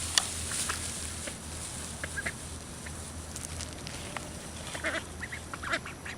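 Ducks calling with short, scattered quacks. A sharp click sounds near the start, and a steady low hum runs underneath.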